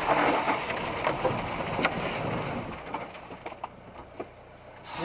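Road and cabin noise from a car dashcam recording, with a few scattered clicks and knocks, dying down over the last couple of seconds.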